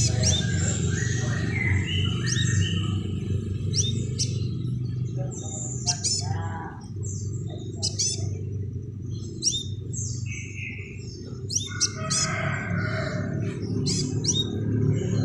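Crimson sunbird calling in a lively run of short, high, sharply falling chirps, repeated irregularly, over a steady low background hum.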